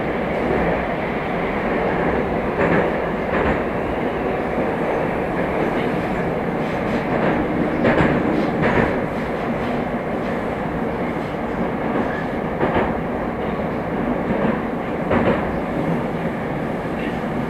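A Moscow metro train of the 'Moskva' type running at speed between stations: a steady rumble of wheels and motors, with a few clacks of the wheels over rail joints scattered through it.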